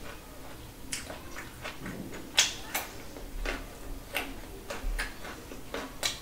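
Close-miked eating sounds: crunching a raw carrot slice and chewing, about six sharp crisp crunches and wet mouth clicks, the loudest about two and a half seconds in.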